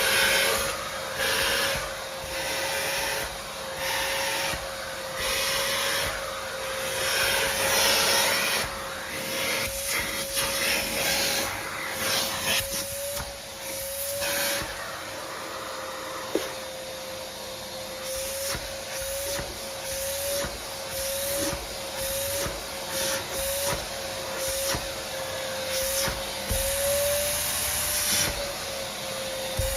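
Vacuum cleaner running, its motor holding a steady whine that wavers slightly in pitch. The rush of suction swells and dips as the nozzle is pushed back and forth, with a few scattered clicks and one sharp click about sixteen seconds in.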